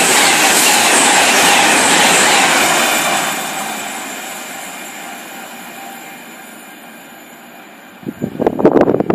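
A train running through the station at speed without stopping, a loud rush that fades away after about three seconds. About eight seconds in, gusts of wind buffet the microphone.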